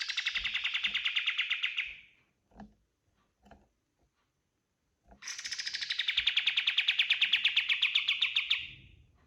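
Kapas tembak singing two long phrases of fast repeated notes, about eight a second, with a few faint clicks in the pause between them.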